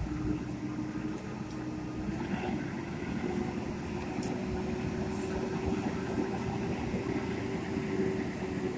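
Steady engine-like hum over a low rumble, with one held tone that steps up slightly in pitch a few seconds in.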